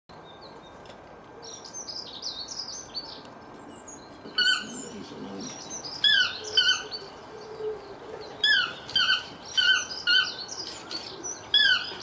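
Bird calls: a high twittering chatter, then a run of short, sharp notes that each drop in pitch, repeated every half second to a second or so.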